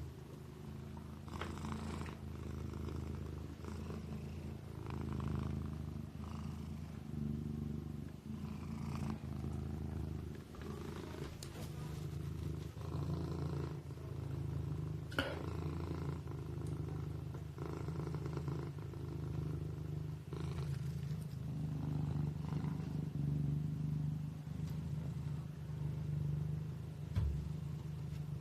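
Kitten purring steadily, a low rumbling hum that swells and eases every second or two with its breathing. There is a small click about halfway through and a soft knock near the end.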